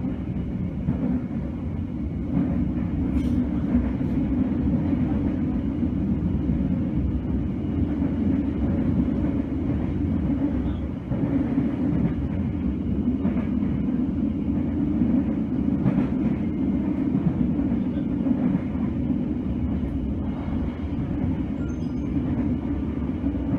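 Steady low rumble of a passenger train in motion, heard from inside the coach: wheels running on the rails and the carriage rattling along, with a few faint clicks.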